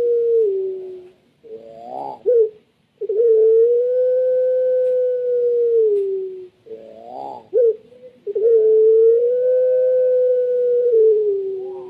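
Puter pelung dove cooing in long, drawn-out howl-like notes, each held steady for about three seconds and dropping in pitch at the end. Short clusters of quick rising notes come between them, and the cycle repeats about three times.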